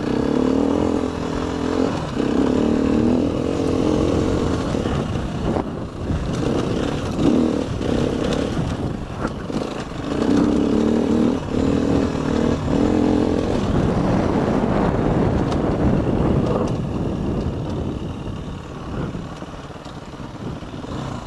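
Dirt bike engine running as the bike is ridden up a rough dirt trail, its note rising and falling with the throttle. It grows somewhat quieter in the last few seconds.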